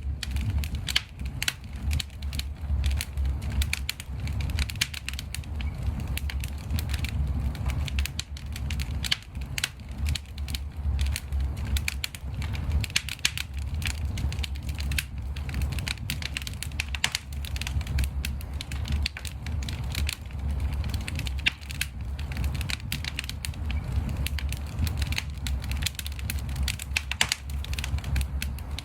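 Fireplace fire crackling and popping, with many irregular sharp pops over a steady low rumble.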